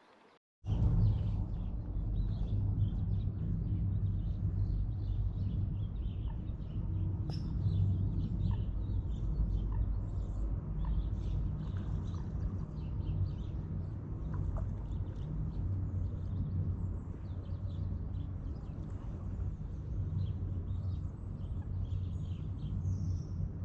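Birds chirping in many short, faint calls over a loud, steady low rumble that starts suddenly about half a second in.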